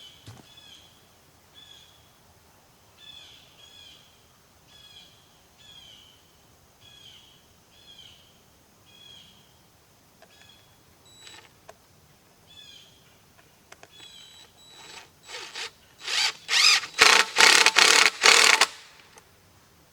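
A bird calling with short, downward-sliding chirps, repeated about once a second. Near the end this gives way to a run of six or so loud, rough scraping strokes lasting a few seconds.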